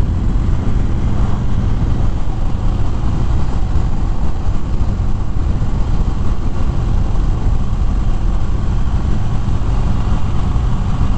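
Harley-Davidson Fat Bob's V-twin engine running steadily while riding, mixed with heavy wind rush over the microphone.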